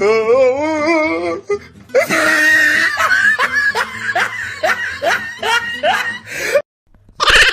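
Laughter in a run of short rising syllables, with music, cutting off suddenly near the end, just before another loud sound begins.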